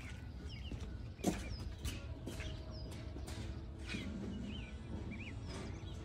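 Small birds chirping outside in short, quick calls, over a low steady rumble. Scattered light clicks of hand tools working the metal plungers of the skid steer's hydraulic joystick valve, with a sharper tap about a second in.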